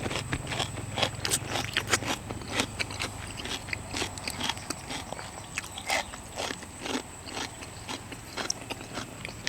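A person eating seafood: close chewing and crunching with irregular sharp clicks and cracks, a couple to a few each second.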